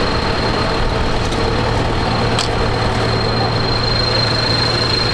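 Tractor diesel engine running steadily, with a thin, steady high-pitched whine above it and a single sharp click about halfway through.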